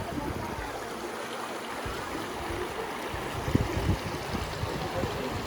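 A river flowing steadily over stones, an even rushing of water, with a few low thumps about three and a half seconds in.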